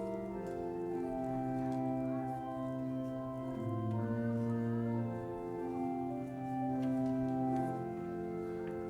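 Church organ playing the closing hymn in slow, sustained chords that change about once a second.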